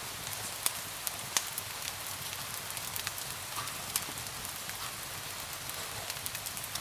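Steady rain hiss with a wood fire crackling over it, scattered sharp pops coming at irregular moments.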